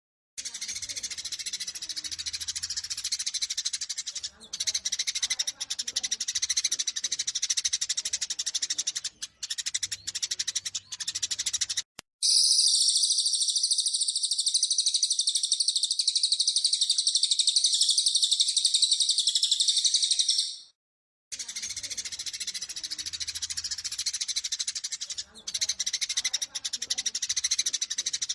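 Eurasian tree sparrows' agitated fighting chatter: dense, rapid chirping. About twelve seconds in it switches to a louder, continuous high trill for about eight seconds, then after a brief break the chatter resumes.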